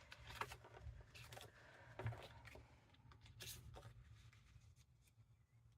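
Faint rustling and a few light taps of paper being handled and sorted.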